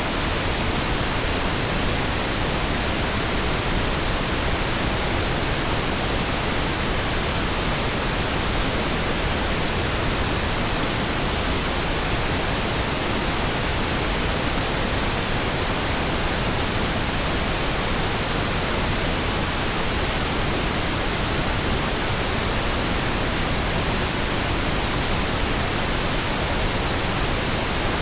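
Synthetic pink noise: a steady, even hiss with no changes.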